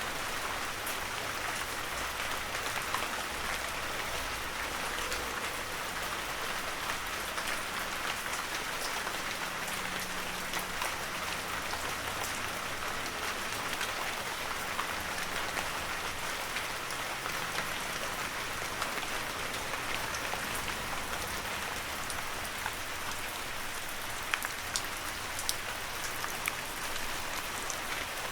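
Heavy rain falling steadily in a forest: a continuous dense hiss with the scattered sharp taps of individual drops.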